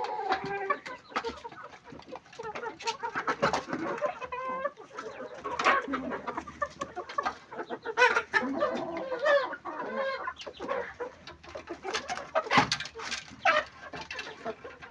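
A flock of chickens clucking and squawking, many calls overlapping.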